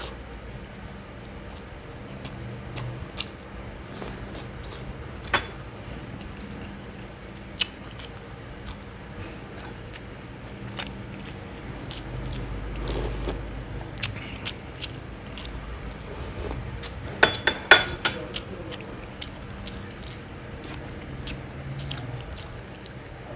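Close-up chewing and mouth sounds of a person eating boiled pork leg and rice. Scattered sharp clicks run through it, with a cluster of louder ones about 17 seconds in.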